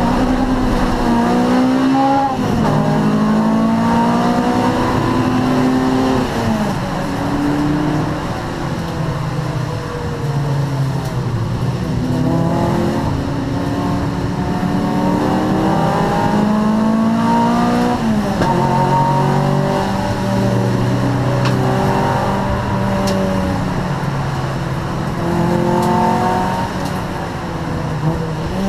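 Honda Prelude race car's 2.2-litre VTEC four-cylinder engine under hard acceleration. Its pitch climbs through each gear and drops sharply at the upshifts, several times, then rises and falls as the car lifts and accelerates again.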